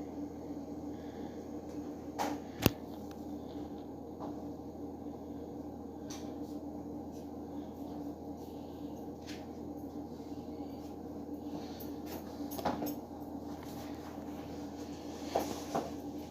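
Steady low hum with a few light clicks and taps of hands handling food and utensils, one sharper click a few seconds in.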